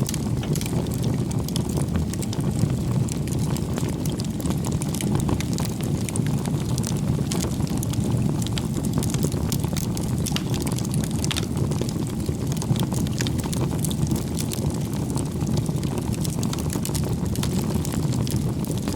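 Wood campfire burning: a steady low rush of flame with many small crackles and pops from the burning logs.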